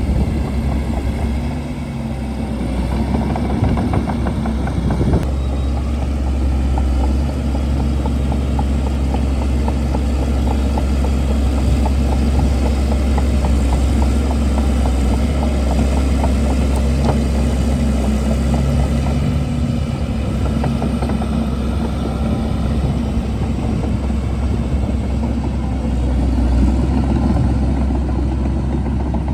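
Shantui DH17C2 crawler bulldozer's diesel engine running steadily under load, with a fast rattle over it.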